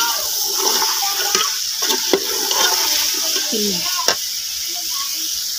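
Chopped carrots frying in ghee in a metal pot, sizzling steadily, while a metal ladle stirs them, scraping the pot and knocking against it a few times.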